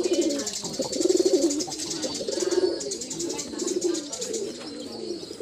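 Pigeons or doves cooing: a run of low, rounded coos, about one a second or a little faster, with a fast high-pitched chatter going on above them.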